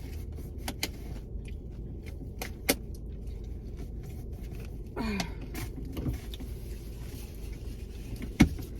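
Low steady rumble inside a car, with scattered small clicks and rustles of eating and handling food and napkins. A short falling 'mm' from a person comes about five seconds in.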